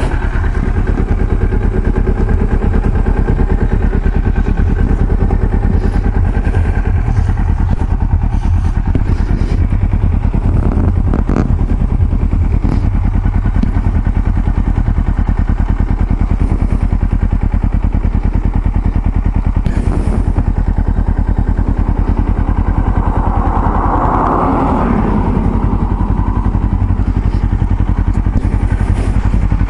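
Vehicle engine running steadily under way on the road, with a brief louder swell a little past the three-quarter mark.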